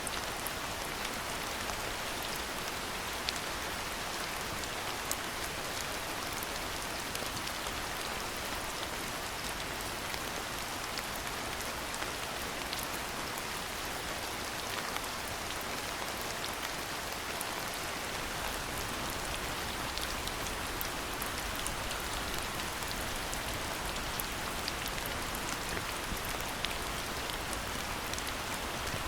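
Steady rain falling: an even hiss with many small drop ticks and an occasional louder, closer drip.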